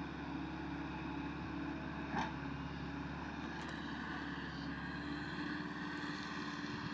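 Diesel engine of an amphibious swamp excavator running steadily, with a brief knock about two seconds in.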